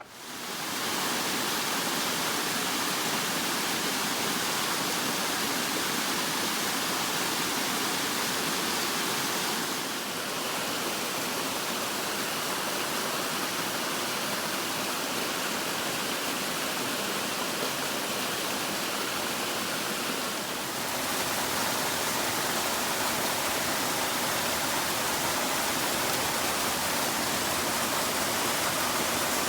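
Steady rushing of falling water from a waterfall. It comes in suddenly at the start, and its tone shifts slightly twice along the way.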